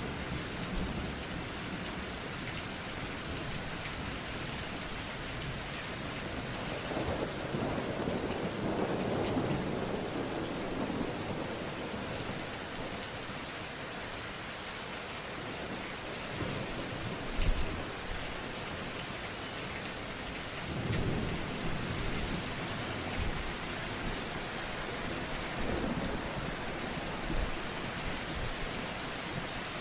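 Steady rain falling, with thunder rumbling several times; the loudest is a short, sharp clap a little past the middle.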